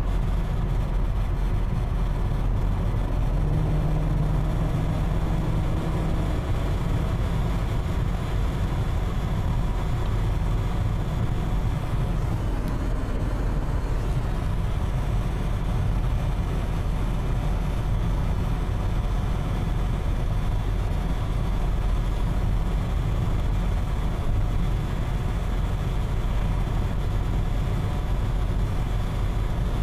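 BMW 528i E39 with its straight-six engine driving at speed: steady engine and road noise, with a faint steady hum from about 4 to 6 seconds in. The owner hears a strange 'electric' noise at speeds over 70 km/h.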